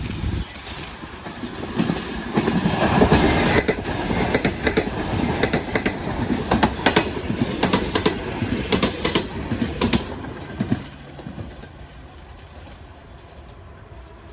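A passenger train passing, its wheels clacking over rail joints in quick clusters over a rumble. The clacking is loudest from about two to ten seconds in, then dies away to a quieter steady hum.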